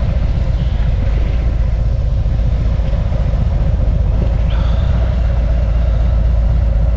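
Harley-Davidson Road King Special's V-twin engine running, a steady deep rumble with no break or change in pitch.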